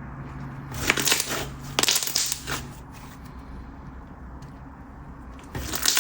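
Thick putty-like slime being squeezed and stretched by hand, with trapped air bubbles popping in crisp crackles. The crackles come in three bursts: about a second in, about two seconds in, and near the end.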